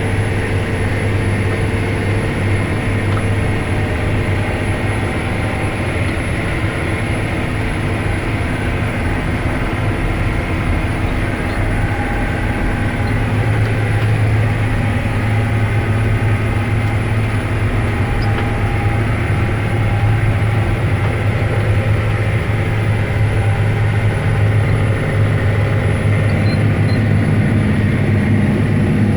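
John Deere 9530 tractor's diesel engine running steadily under load while pulling a high-speed disc, with a constant low drone.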